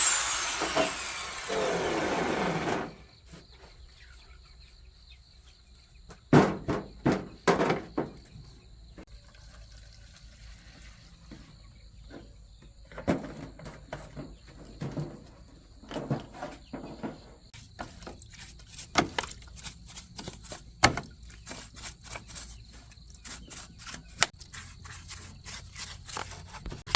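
A power tool spinning down over the first three seconds and stopping, followed by scattered light clicks and knocks of metal parts being handled, in small clusters.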